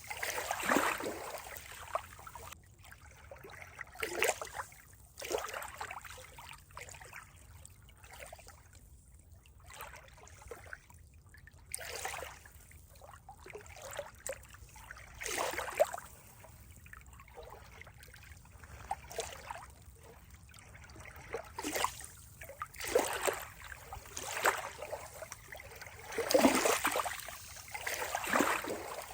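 Water trickling and splashing in irregular surges about a second long, every one to three seconds.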